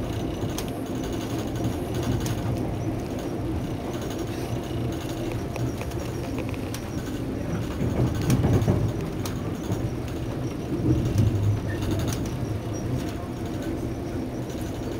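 Steady rumble of a moving Via Rail passenger train heard from inside the car, with scattered clicks and knocks from the wheels and track. The rumble swells briefly about eight seconds in and again around eleven seconds.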